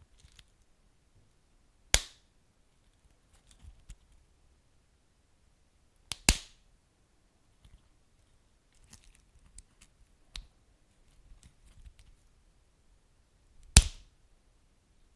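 Wood fire crackling in a fireplace: scattered small crackles, with three sharp pops from the burning logs, about two seconds in, about six seconds in, and the loudest near the end.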